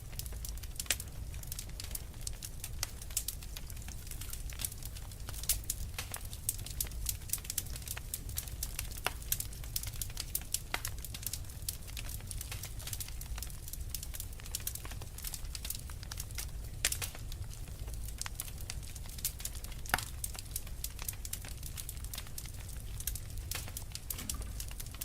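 Wood fire crackling: irregular sharp pops and snaps, a few louder than the rest, over a steady low rumble of the flames.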